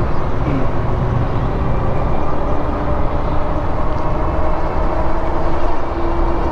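Steady rush of wind on the microphone and road noise from an e-bike riding at speed, with a faint steady whine under it that becomes a little clearer near the end.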